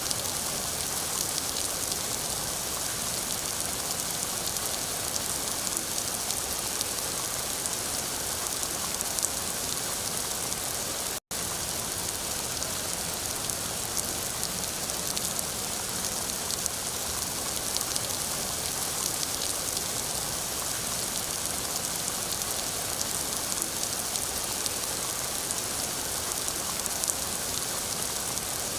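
Steady rain falling, an even hiss strongest in the high range with many separate drop hits through it. It cuts out for an instant about eleven seconds in.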